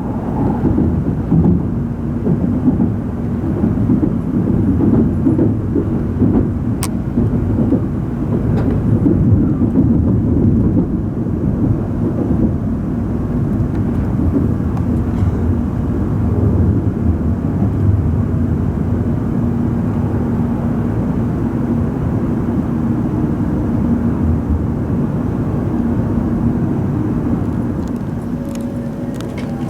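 Running noise of an N700-series Shinkansen heard inside the passenger car: a steady low rumble with a faint hum as the train runs in to its terminal stop, easing a little in level near the end. A single sharp click sounds about seven seconds in.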